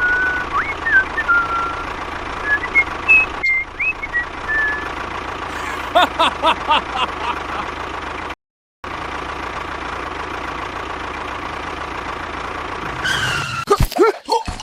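A steady mechanical running noise with a constant whine, like a vehicle engine, with birds chirping over it for the first few seconds. A short run of rhythmic pulses comes about six seconds in, the sound drops out briefly about two-thirds of the way through, and falling tones come near the end.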